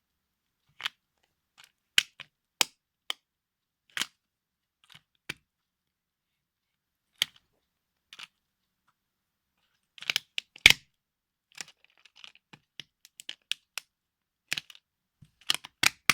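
Plastic toy cars cracking and crunching under high heels: scattered sharp cracks and clicks, with a cluster and the loudest crack about ten seconds in.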